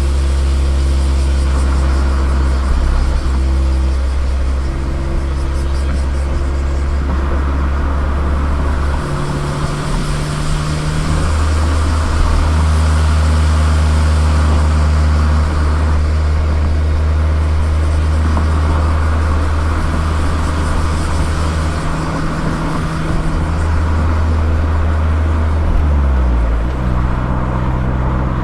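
Mazda ND Roadster (MX-5) four-cylinder engine and exhaust while driving at steady city speed, with tyre and road noise under it. The engine note steps up and down in pitch a few times and glides briefly near the end.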